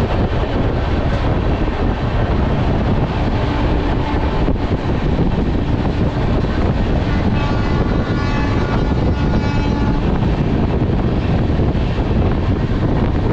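Passenger train running at speed, heard from an open coach doorway: a steady loud rush of wheel and rail noise mixed with moving air. About halfway through, a faint high tone sounds for about two seconds over the noise.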